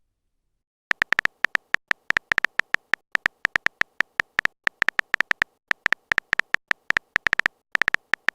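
A fast, uneven run of short, high electronic beeps all at the same pitch, starting about a second in with a couple of brief pauses: the typing sound effect of a phone-chat video.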